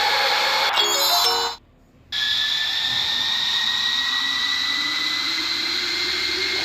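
Steady jet airliner engine noise with a high whine. About a second in, a short two-note cabin chime sounds, then the sound cuts out for half a second. The engine noise comes back with a whine slowly rising in pitch, as the engines spool up.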